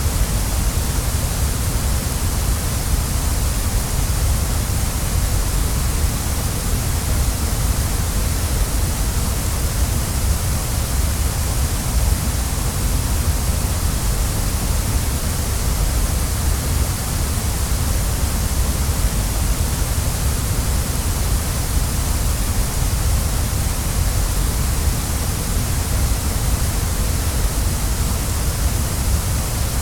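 Waterfall, falling water rushing steadily in an even, unbroken wash of noise with a strong deep low end.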